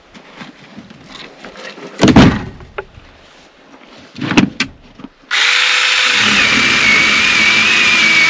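Two heavy knocks, then a chainsaw starts suddenly about five seconds in and runs steadily at high speed with a wavering whine.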